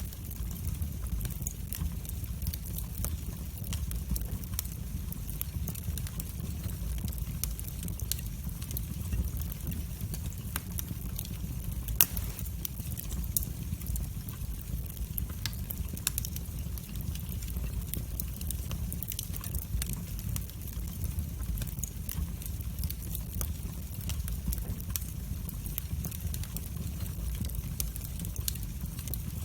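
Wood fire burning in a fireplace: a steady low rumble of the flames with frequent small crackles and pops, one sharper pop about twelve seconds in.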